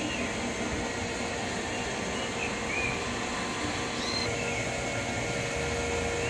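Small birds giving faint, short chirps every second or so over a steady outdoor background noise; a low steady hum joins about four seconds in.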